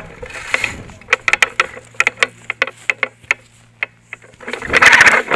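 Airsoft gunfire: scattered single sharp clicking shots through the middle, then a burst of rapid automatic fire starting near the end.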